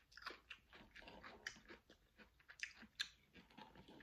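Close-up chewing of raw cucumber, a run of small crunches at uneven intervals.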